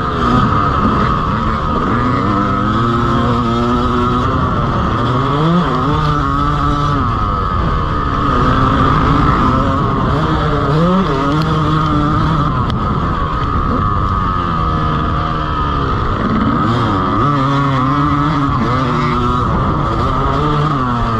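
Motocross dirt bike engine on a lap, its pitch climbing under acceleration and falling back as the rider shifts or rolls off, over and over. A steady high tone sits under it.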